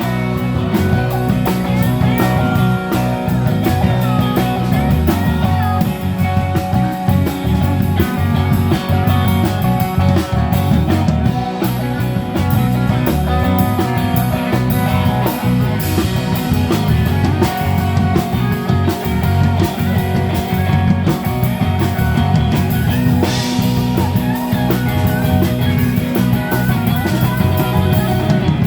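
Live rock band playing an instrumental break: a guitar lead with bending notes over bass and a drum kit keeping a steady beat.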